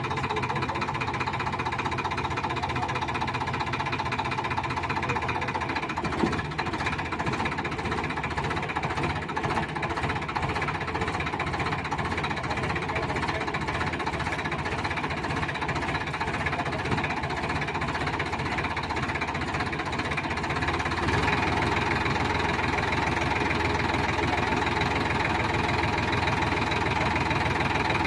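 Sonalika diesel tractor engine running steadily with a clattering diesel knock. About 21 seconds in it gets louder as the engine takes on more throttle.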